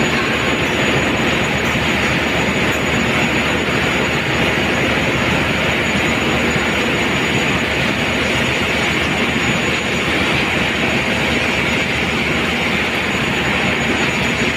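Steady, loud ship engine-room machinery noise, an even roar that does not change, with a faint high steady tone on top.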